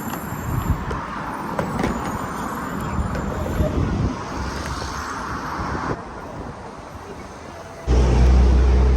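Car driving along a road: steady road and engine noise, with a much louder low rumble starting abruptly near the end.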